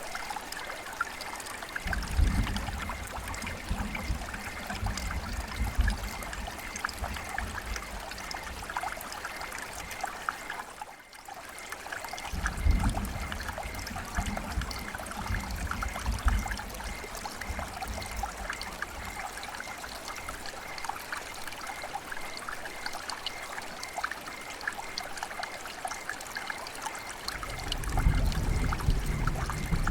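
River water flowing and trickling, a steady splashing babble full of small drips and plinks. Irregular low rumbles come and go underneath, with a brief dip near the middle.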